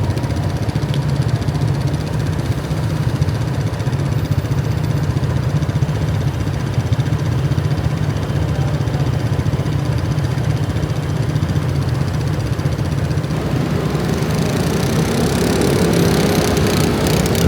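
Motor scooter engines running in heavy traffic: a steady low engine drone that grows louder near the end.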